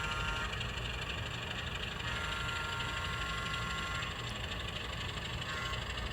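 Diesel engine sound from an N scale model locomotive's sound system, a steady idling rumble with a faint whine that comes and goes.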